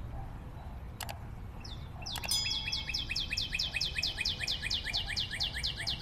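Bird chirping in a fast, regular run of short downward-sweeping chirps, about five a second, starting a couple of seconds in. A low rumble lies underneath, and two sharp clicks come in the first couple of seconds.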